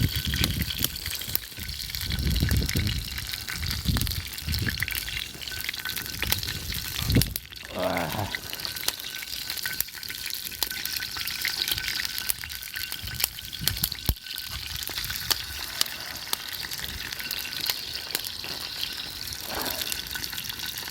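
Meat sizzling as it cooks over a campfire: a steady hiss dotted with small crackles and pops. A brief falling sound about eight seconds in.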